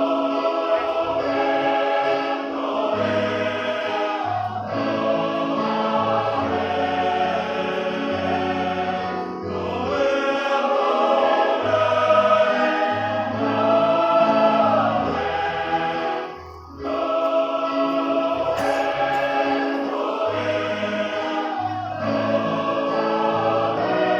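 Church choir singing a hymn in several voice parts, with a brief breath pause about sixteen seconds in.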